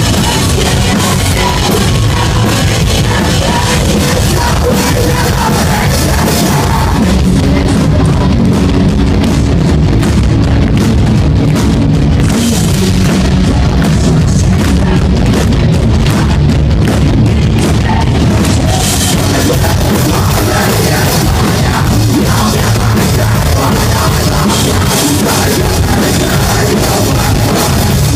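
Loud live post-hardcore rock band: heavy distorted guitars, bass and pounding drum kit, with some vocals. It comes through with the crushed, distorted sound typical of a phone or camera recording in a loud crowd.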